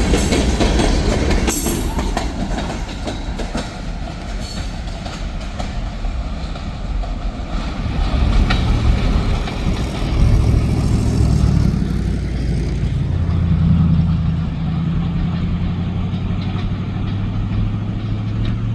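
Freight train rolling past with its wheels clacking over the rail joints. From about halfway through, a steady low engine drone comes up under the rolling noise.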